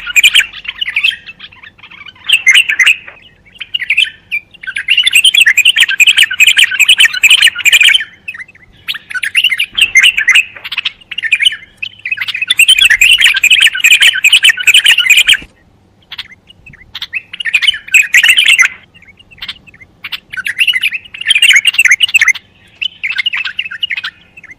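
A songbird chattering and calling in dense bursts of one to four seconds, with short pauses between them.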